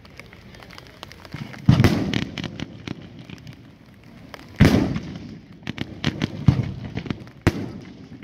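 Fireworks bursting: three loud bangs, about a second and a half, four and a half and seven and a half seconds in, with rapid crackling between them.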